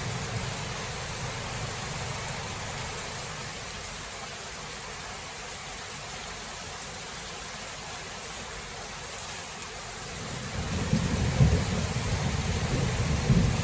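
Thunderstorm: steady rain hissing, with a deep rumble of thunder rising about ten seconds in and continuing to the end.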